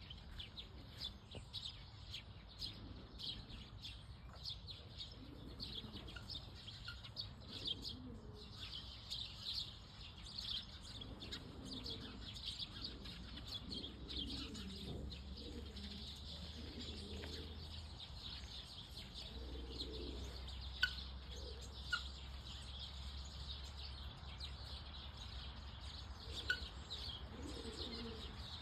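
Many small birds chirping, a dense, high, quick twittering that goes on throughout, with a few lower, softer calls in the middle.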